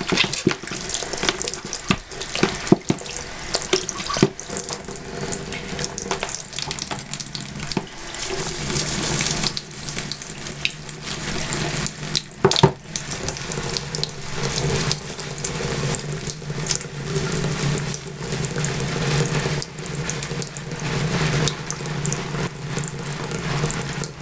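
Tap water running steadily into a sink while a bar of soap is worked into a lather under it, with short wet splashes and squelches now and then.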